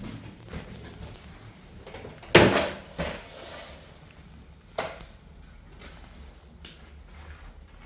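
A few scattered knocks and thuds, like objects being handled or set down: the loudest about two and a half seconds in, then lighter knocks at about three and five seconds and a thin click at about six and a half.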